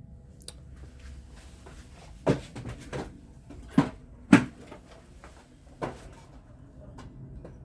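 About five sharp knocks and clunks, the loudest two near the middle, as fan parts are handled and set down during disassembly.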